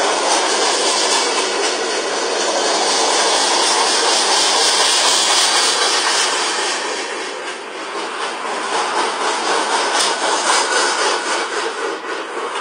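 Freight train of loaded flatcars rolling past: a steady rushing rumble of steel wheels on the rails, swelling for a few seconds in the middle and easing off for a moment before building again.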